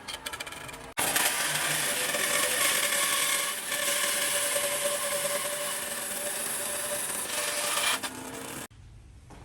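A power tool working on wood: a steady, even hiss with a faint hum. It breaks off abruptly just before a second in, starts again, and drops away near the end.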